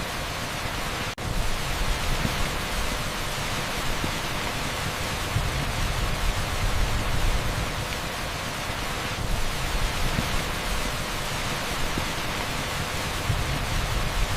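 Steady heavy rain on a street, blended with pink noise into a dense, even hiss. The sound cuts out for a split second about a second in.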